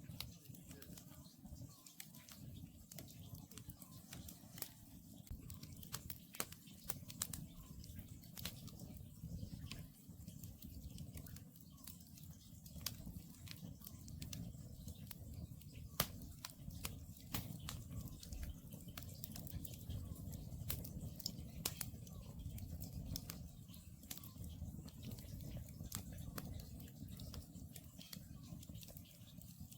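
Wood campfire crackling: irregular sharp pops and snaps of burning firewood over a low, steady rumble of the fire.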